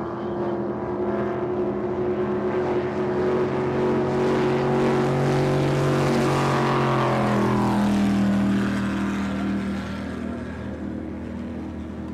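Offshore racing powerboat engines running hard as a boat passes: the engine note grows louder, then drops in pitch as it goes by about seven seconds in and fades away.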